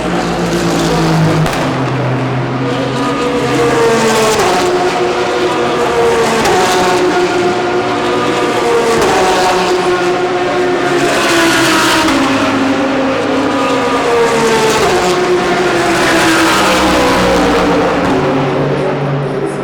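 GT3 race cars running at speed, one after another: engine pitch climbs in steps as they shift up through the gears, then drops away as each car goes by. This repeats several times.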